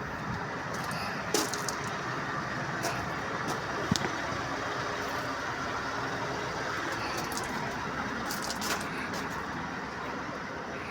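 Truck engine running steadily, with a few sharp clicks and rattles.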